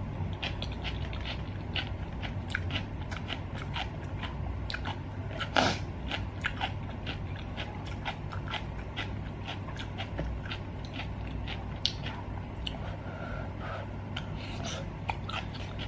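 Close-miked eating sounds: wet chewing and mouth clicks as spicy stir-fried rice cakes in sauce are eaten from a wooden spoon, with a louder slurp or smack about five and a half seconds in. A low steady hum runs underneath.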